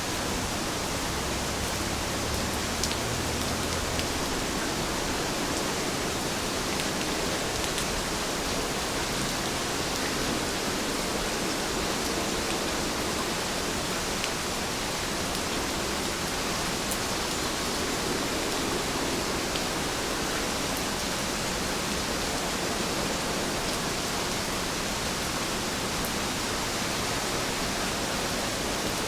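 Heavy rain falling steadily, an even hiss with occasional faint ticks of single drops.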